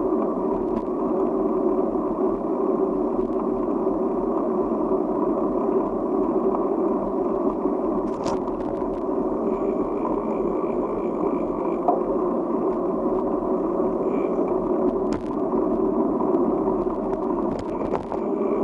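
Steady rushing road noise of a moving ride, tyres and air rushing past, with a few faint clicks.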